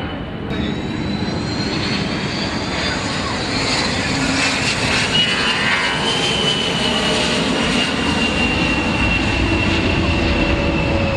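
Fixed-wing aircraft engines running loud and steady, with a high whine that rises slightly about five seconds in and then slowly falls.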